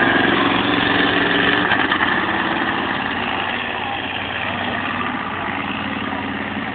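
Monster truck engine running, loudest in the first two seconds, then easing off and growing gradually quieter.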